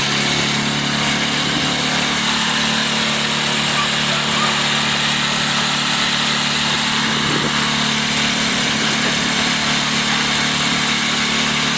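Small motorboat's engine running at a steady speed, a constant low hum under the hiss of wind and water.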